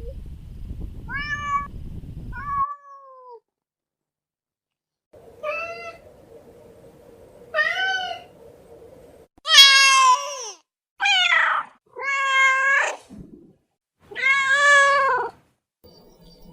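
Domestic cats meowing: about eight separate meows, the first few short and thin, the later ones long and loud. Several recordings are cut together, with a brief silence a few seconds in.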